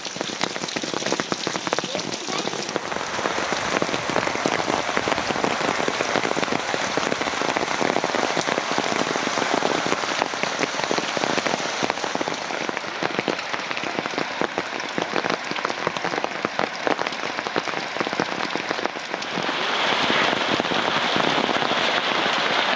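Heavy rain falling and pattering on a surface, a dense, steady hiss of many drops, growing louder a few seconds before the end.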